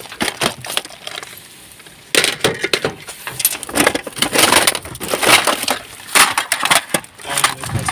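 Rubbish being rummaged through in a waste bin: irregular crunching, clattering and knocking as items are shifted and pulled out, with a brief lull about a second in.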